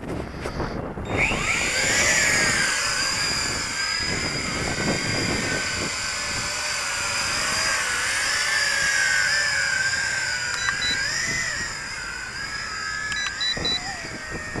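Small quadcopter's motors and propellers whining, spinning up about a second in and then wavering up and down in pitch as the throttle works against strong gusts, with wind buffeting the microphone. A few short high beeps sound near the end.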